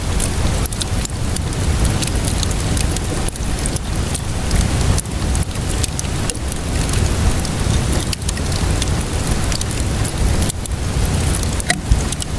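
Steady rainfall mixed with a crackling wood fire: a continuous dense hiss with many short, sharp pops and snaps scattered irregularly through it.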